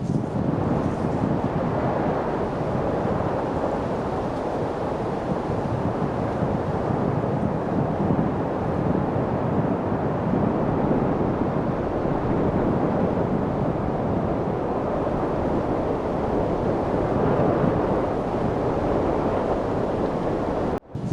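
Steady light wind noise, an even low rushing with no gusts standing out. It cuts out for an instant near the end.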